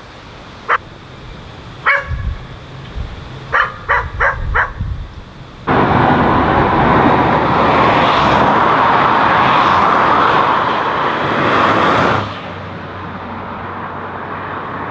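A dog barking: one bark, another about two seconds in, then a quick run of four barks about four seconds in. Just before six seconds a loud, steady rush of noise starts abruptly, and it drops to a quieter steady noise after about twelve seconds.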